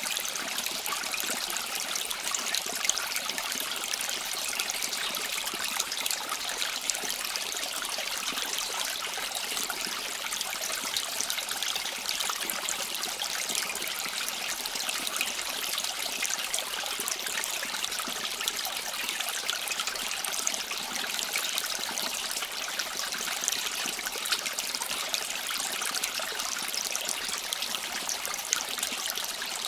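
Steady rush and trickle of a flowing stream or brook, bright and even with a fine splashing texture, cutting in suddenly at the start.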